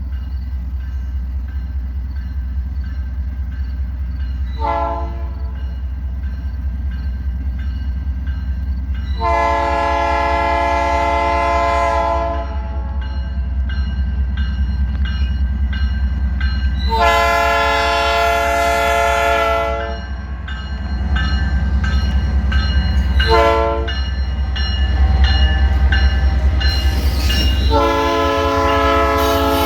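Norfolk Southern diesel locomotives running with a steady low rumble while the lead unit's multi-chime air horn sounds: a short toot, then the grade-crossing signal of long, long, short, long, the last long blast still going at the end.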